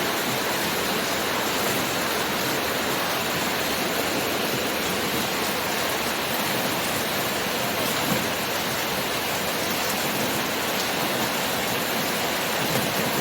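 Steady rush of gushing, pouring rainwater runoff, with heavy rain falling.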